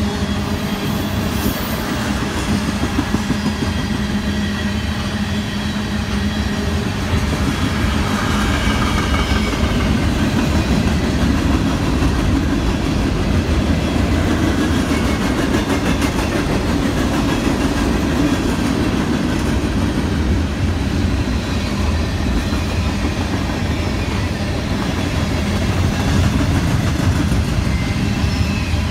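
A train passing at steady speed, its cars rolling along the rails in a continuous, even noise.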